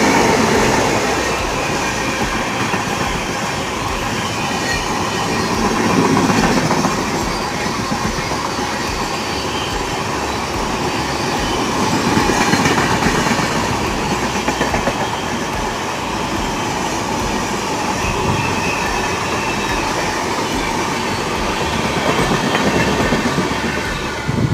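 Indian Railways express train rolling past, its wheels clattering over the rail joints, with the noise swelling and easing every few seconds as the coaches go by.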